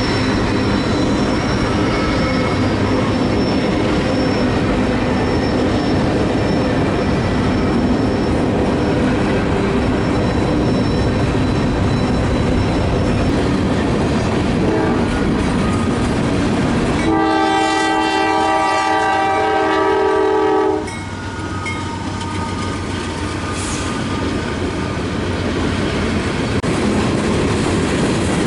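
Train passing with a steady rumble, and a locomotive horn sounding one long chord-like blast of about four seconds, a little over halfway through.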